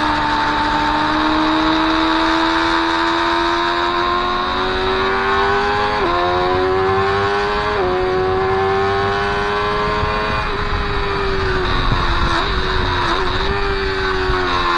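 Motorcycle engine accelerating hard, its pitch rising through two quick upshifts, then falling as it slows with short throttle blips on the downshifts, over steady wind rush.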